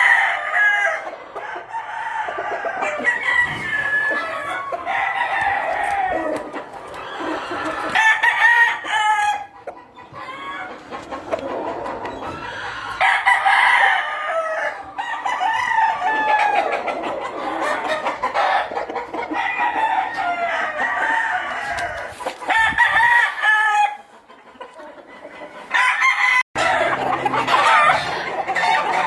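Many yellow-legged hatch gamecocks crowing one after another, their calls overlapping, with shorter clucking calls in between.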